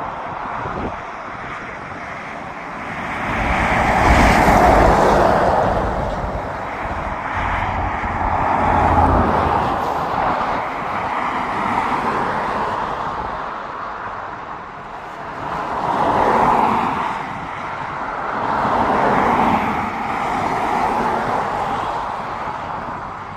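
AH-64 Apache attack helicopter's rotors and twin turboshaft engines running, the noise swelling and fading in several waves.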